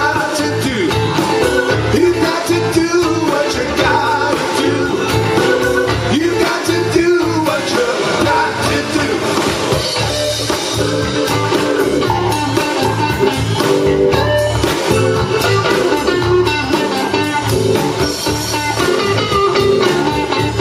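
Live blues band playing an instrumental passage, with guitar carrying the lead over a steady bass and drum groove.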